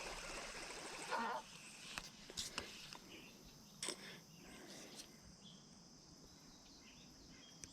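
Quiet outdoor ambience with a few faint, brief clicks and knocks.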